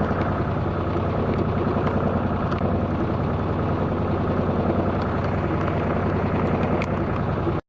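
Engine of a Macwester sailing yacht running steadily with an even low throb, until the sound cuts off abruptly near the end.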